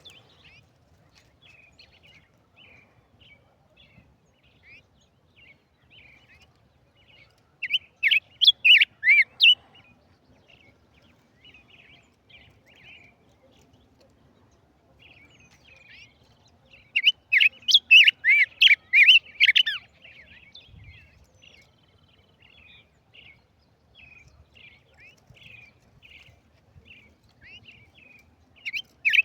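A small songbird known as a tigrillo singing: soft, quick chirps throughout, broken by two loud bursts of rapid, warbling song of two to three seconds each, about halfway apart, with a third burst starting at the very end.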